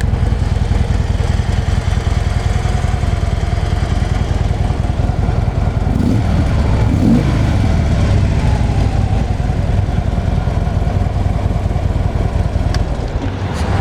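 2015 Harley-Davidson Ultra Limited's Twin-Cooled Twin Cam 103 V-twin idling steadily through its factory exhaust.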